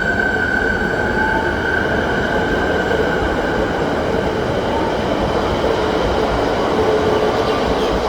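Suburban electric train running past, a loud steady rush of wheels on rail. Over it is a steady high-pitched whine that dims about halfway through, while a lower hum comes up near the end.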